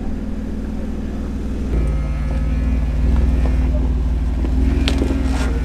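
Off-road Jeep engine running at low revs, then throttle applied about 1.7 s in, the engine note rising and getting louder, with a sharp click or knock near the end.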